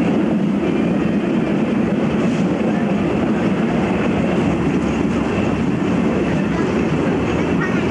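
A train running steadily along the track, a continuous, even noise of wheels and running gear that neither builds nor fades.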